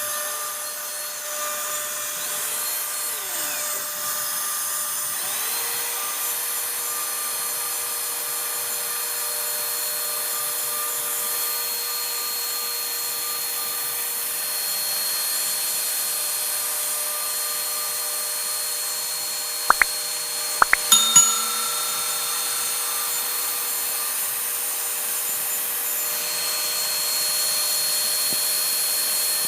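CNC router spindle running steadily with a high whine, carving wood. A few sharp clicks come in a quick cluster about two-thirds of the way through.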